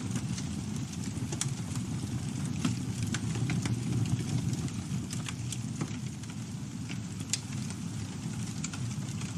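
Campfire burning with a steady low rumble of flames and frequent irregular crackles and pops from the burning wood.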